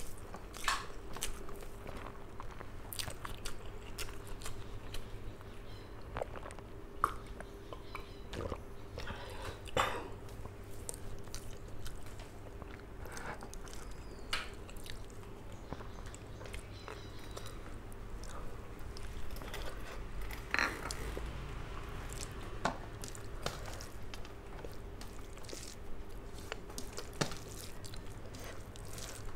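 Close-miked chewing and wet mouth sounds of a person eating rice and fried hilsa by hand, with irregular smacks and clicks.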